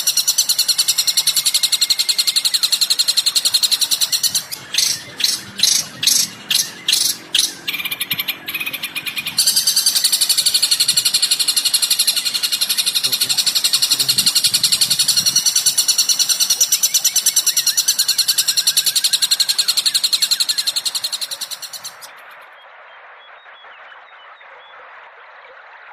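Bird song, recorded: rapid, continuous high-pitched chattering, broken about five seconds in by a run of about eight separate loud notes, then resuming until it drops out about 22 seconds in, leaving a fainter, thinner sound.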